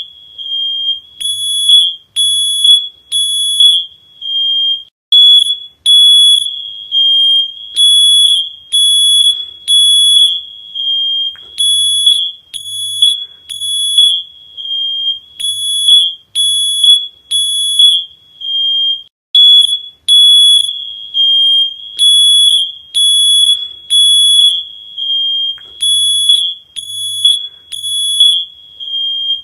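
High-pitched electronic alarm beeping in a repeating pattern, mostly three beeps then a short pause.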